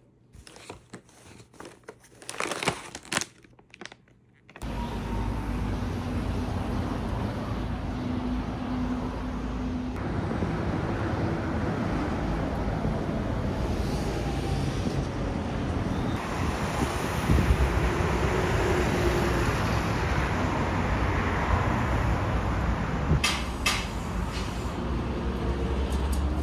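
A few scattered knocks and clicks, then, about four and a half seconds in, steady road-vehicle and traffic noise with a low rumble starts abruptly and carries on.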